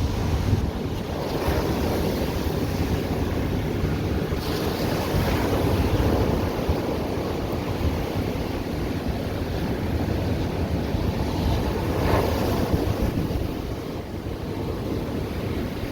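Ocean surf washing onto the shore in a steady rush, with waves surging at irregular intervals, heaviest about twelve seconds in. Wind buffets the microphone, adding a low rumble.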